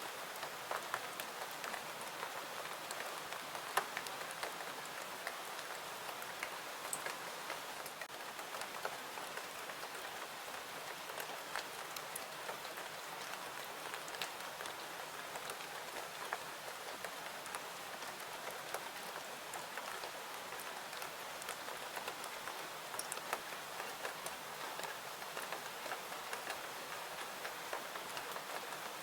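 Steady rain falling, an even hiss with scattered sharp clicks and pops through it.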